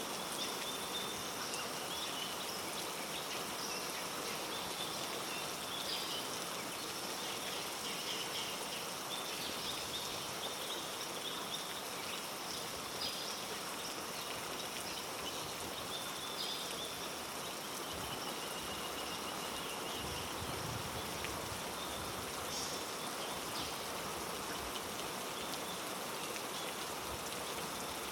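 Steady heavy rain falling on rainforest foliage, an even hiss. Over it, high-pitched animal calls come and go every second or two.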